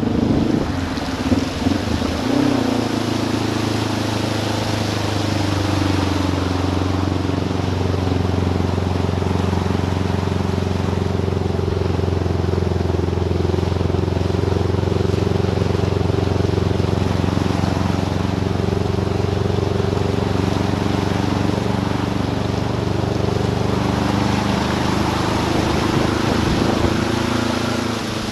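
Motorcycle engine running at a steady pace while riding, its note holding nearly level with only slight rises and falls, after a few knocks and bumps in the first two seconds.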